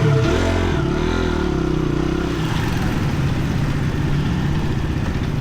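Dirt bike engine revving up and down over the first couple of seconds, then running steadily.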